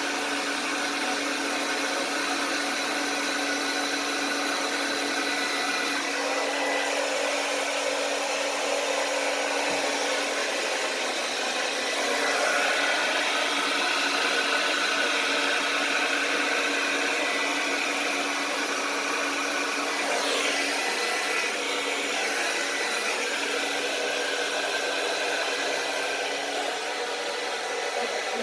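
Handheld blow dryer running steadily, its motor hum and rushing air changing a little in tone now and then as it is moved over wet paint.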